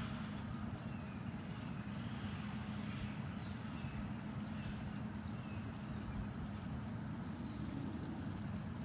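Steady low rumble of outdoor background noise, with faint short high chirps now and then.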